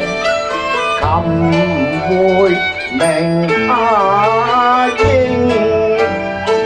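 Instrumental Cantonese opera accompaniment: a bowed fiddle plays a sliding melody over plucked or struck strings.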